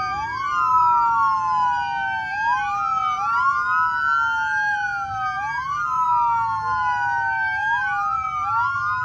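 Police car sirens on the wail setting, at least two sounding together out of step, each slowly rising and falling in pitch every two to three seconds.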